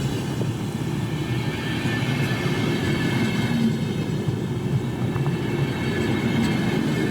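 A train rolling along the track with a steady rumble of wheels and wagons.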